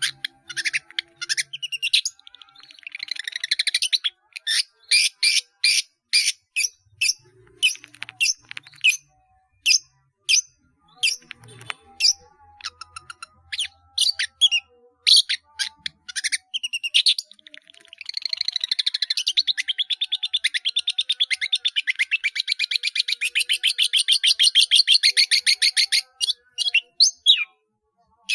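Long-tailed shrike (cendet) singing loudly, its song packed with mimicked phrases of other birds: a run of sharp, high chirps and short calls, then a fast rattling trill for about eight seconds starting two-thirds of the way in.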